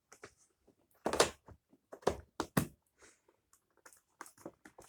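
A few sharp knocks and clicks from a Dyson upright vacuum cleaner's plastic parts being handled, the loudest about a second in and a cluster of three about two seconds in, with no motor running.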